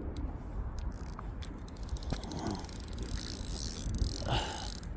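Fishing reel clicking in a fast, even run of ticks through the middle, as a pike has just taken a float-fished dead bait.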